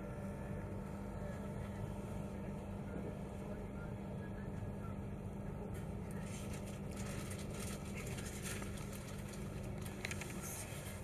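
Steady running noise of an express passenger train heard from inside the carriage, a constant hum under a rushing rumble. From about six seconds in, a rougher, crackling hiss of wheels and rails joins.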